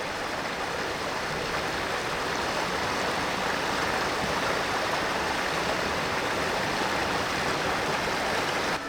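Mountain stream water rushing and splashing over rocks, a steady flowing sound.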